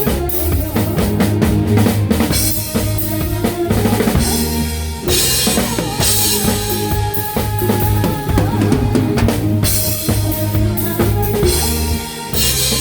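A live band playing a song, led by a drum kit with bass drum, snare and cymbals over sustained bass and pitched instruments.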